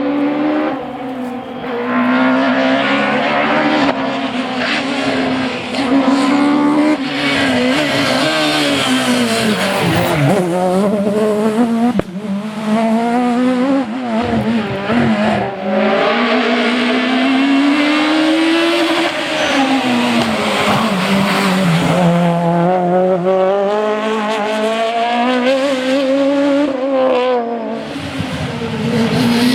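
Citroën Xsara rally car engine (Kit Car / F2000) revving hard at full load. Its pitch rises and falls repeatedly with gear changes and lifts for corners.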